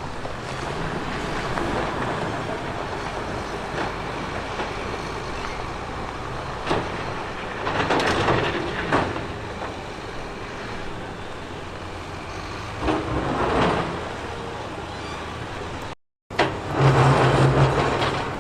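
Heavy diesel construction machinery working, its engine running steadily under a noisy clatter. The noise surges twice, then breaks off abruptly near the end and comes back louder with a low, steady engine hum.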